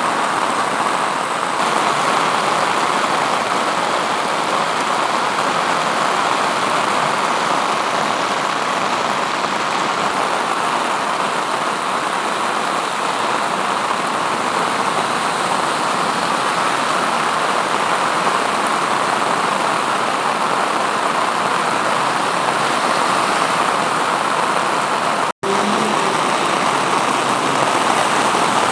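Heavy rain pouring down steadily, with a brief dropout about 25 seconds in.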